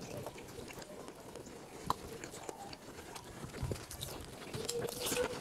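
Chewing and biting as chicken curry is torn apart and eaten by hand, with scattered small wet clicks and ticks, a sharper one about two seconds in.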